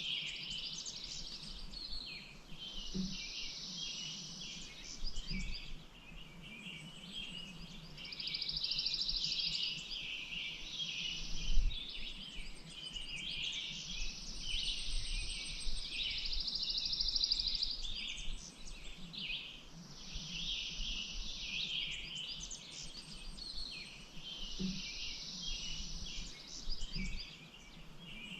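Several songbirds singing at once, with a buzzy trill that comes back every few seconds over denser chirping. A brief low thump about twelve seconds in.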